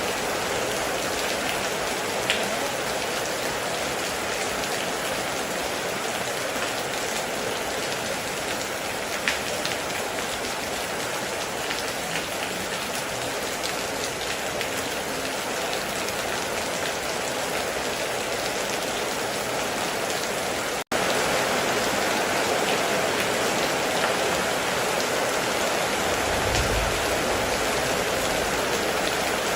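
Heavy rain falling steadily on a metal roof, a dense even hiss with an occasional sharp drip tick. There is a momentary break about two-thirds of the way through, after which the rain is a little louder, and a brief low rumble near the end.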